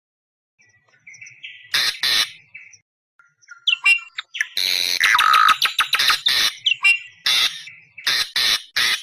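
Awar-awar bird lure call: harsh, screeching calls in rapid runs of repeated notes, used to attract wild awar-awar birds. The calls come in after a second and a half of quiet, with a long loud run from about four and a half to seven seconds in and two short bursts near the end.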